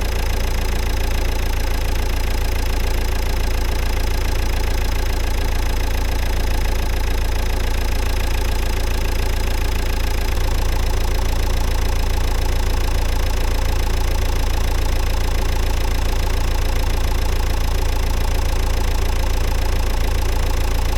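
Nissan 1.5 dCi K9K four-cylinder diesel engine idling steadily, getting slightly louder about halfway through.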